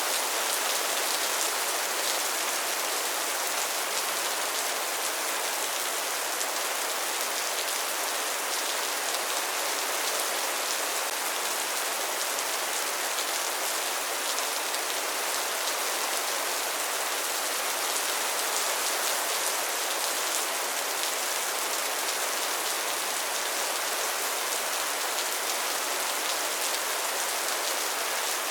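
Rain falling steadily, an even hiss made of many individual drops.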